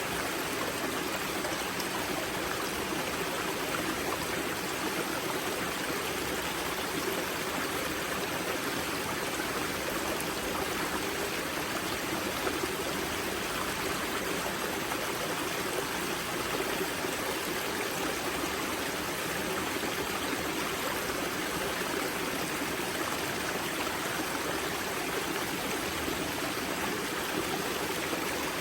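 Spring-fed mountain river at its source, water rushing and splashing over rocks in a steady, unchanging flow.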